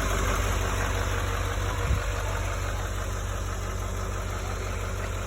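2019 Chevrolet Silverado 3500 HD's 6.6-litre Duramax V8 turbo-diesel idling steadily, growing slowly fainter, with one light knock about two seconds in.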